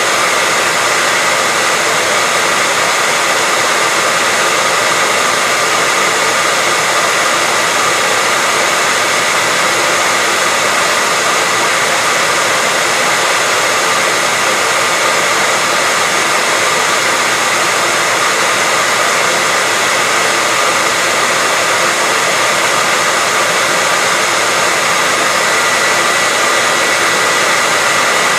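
Hair dryer blowing continuously: a steady, even rush of air with a faint constant whine from the motor.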